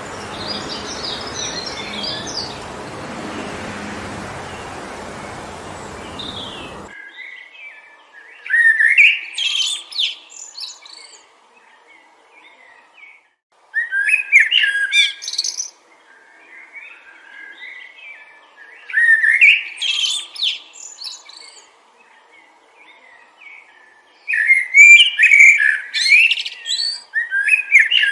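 Wind blowing through the trees for the first seven seconds, cutting off abruptly. After that a songbird sings four short phrases of fast chirps, each a couple of seconds long and roughly five seconds apart.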